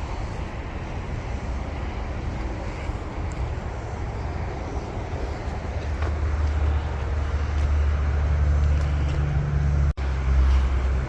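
Toyota Prius driving, a steady low rumble with a low hum that swells about six seconds in, which the driver calls a weird noise. It cuts out for an instant near the end.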